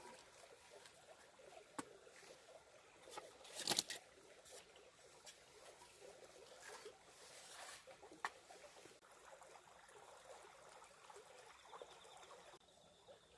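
Faint scattered small clicks and light rustling, with a short cluster of louder sharp cracks about four seconds in.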